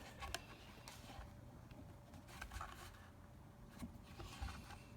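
Faint handling sounds: a few light clicks and soft scrapes as an etched metal plate is pressed and slid into place on freshly glued wood.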